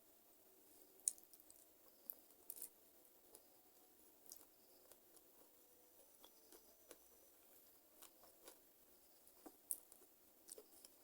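A person chewing chicken feet close to the microphone: quiet chewing broken by scattered sharp crunches and clicks, the loudest about a second in and another near the end.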